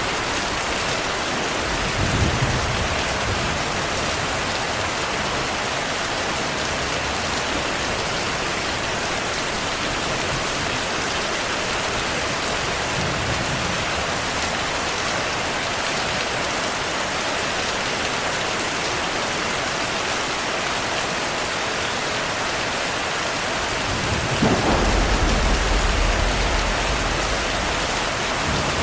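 Steady heavy rain with thunder. A short rumble comes about two seconds in, and a longer, louder low rumble of thunder rolls near the end.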